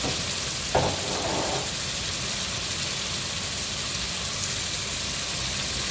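Chopped vegetables and tomato frying in hot oil in a pan: a steady sizzle, with a brief louder burst about a second in.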